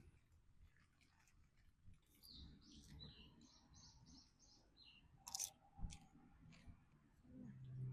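A small bird calling: a quick run of about eight short high notes that step down in pitch at the end. A few sharp clicks follow.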